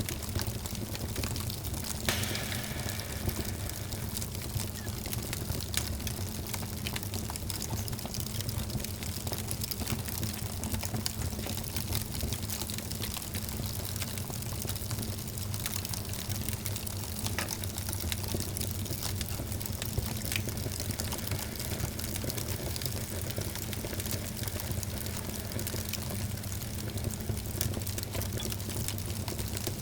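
Wood fire in a fireplace crackling and popping over a low rumble of burning, with one sharper pop about two seconds in.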